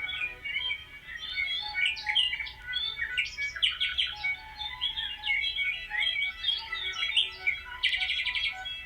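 Many small songbirds chirping and singing at once, a dense chorus of overlapping chirps and trills, with a fast run of repeated notes near the end.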